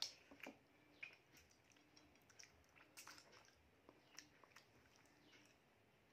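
Faint chewing and wet mouth sounds with scattered small clicks and smacks, from a person eating rice and mutton curry with the fingers; the sharpest click comes right at the start.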